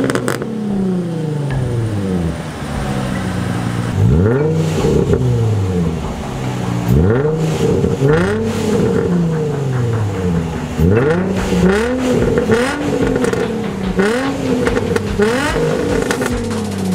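Car engine being free-revved again and again, each rev rising quickly in pitch and falling back, with short pauses between revs.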